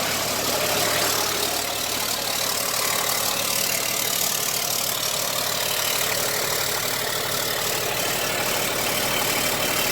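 LMTV military truck's diesel engine idling steadily, with a steady hiss over it.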